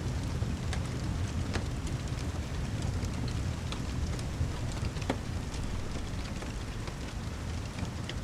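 Rain and fireplace ambience: an even hiss of heavy rain over a deep, constant rumble, with scattered sharp crackles and taps about once or twice a second.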